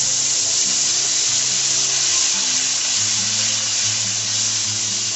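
Onion paste sizzling in hot oil in a kadhai as a spatula stirs it, with background music underneath.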